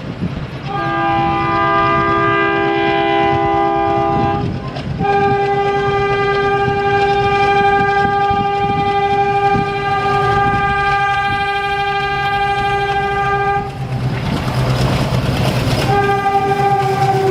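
WDM3A ALCO diesel locomotive sounding its multi-tone horn in three blasts: one of a few seconds, a long one of about nine seconds, then a third whose pitch drops near the end. A steady low diesel engine rumble runs underneath.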